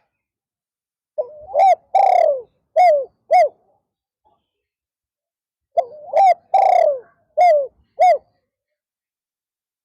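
Spotted dove cooing: two phrases about four and a half seconds apart, each a run of four or five short, falling coos with a longer one second in the run.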